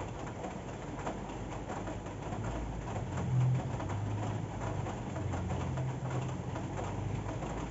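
Steady rain pattering, with a low hooting tone that comes and goes several times underneath.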